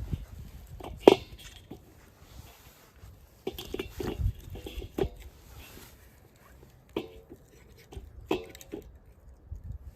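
Scattered knocks, clicks and rustling of firewood being handled and set in place, the sharpest knock just after a second in, with two short pitched sounds about seven and eight seconds in.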